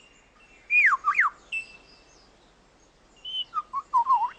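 Superb lyrebird singing whistled phrases of sharply swooping, falling-and-rising notes in two bursts, the first about a second in and the second near the end, with a brief steady whistle between them.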